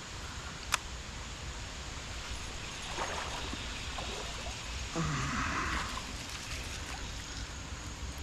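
Creek water running as a steady wash, with a sharp click just under a second in and a brief louder splash-like rush about five seconds in.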